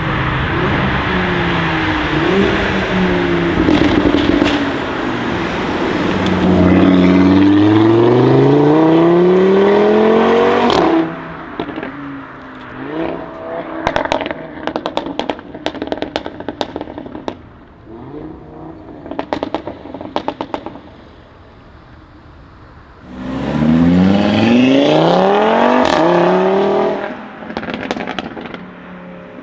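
Audi RS3 8V's turbocharged five-cylinder engine accelerating hard, its pitch rising steeply, then cutting off on the lift into a long run of exhaust pops and crackles on the overrun. Near the end it accelerates hard again, rising in pitch, and drops back into crackles.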